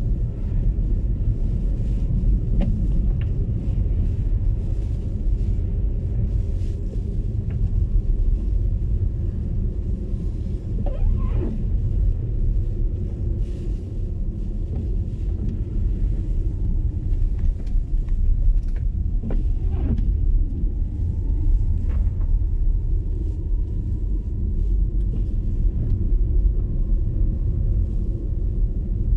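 Steady low rumble of tyre and road noise from an MG ZS EV electric car driving on a snowy road. A few faint short sounds come through, and a faint whine slowly rises in pitch over the second half.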